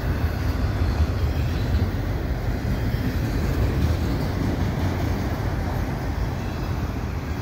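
Freight train's autorack cars rolling past on the rails close by, a steady low rumble of wheels and cars.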